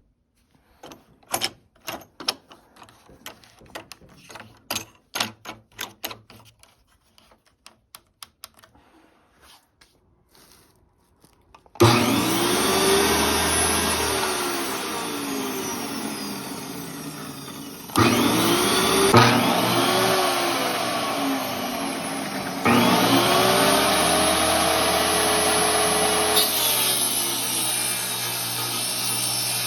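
A string of light clicks and knocks, then about twelve seconds in a power tool starts up and runs loudly, its motor pitch rising and falling several times, with two sudden jumps in loudness later on.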